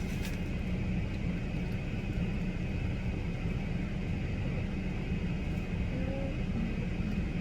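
Steady low rumble of a car heard from inside the cabin, with a faint constant high whine over it.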